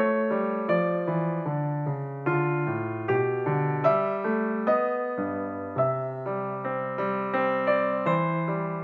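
Background piano music: a slow, gentle keyboard piece of evenly paced notes that strike and fade over low held chords.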